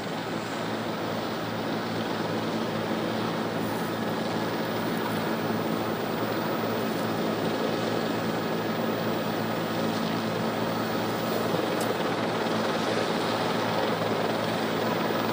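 Steady drone of a helicopter's engine and rotor, a constant low hum under an even rushing noise, growing slightly louder about two seconds in.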